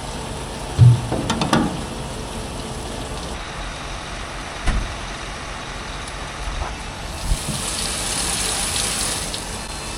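Farm vehicle running steadily, with a sharp thump about a second in, a few lighter knocks later, and a stretch of hissing near the end.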